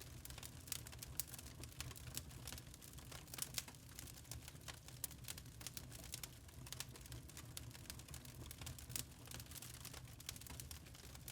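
Wood fire crackling in a fireplace: irregular sharp pops and snaps, several a second and uneven in strength, over a low steady rumble.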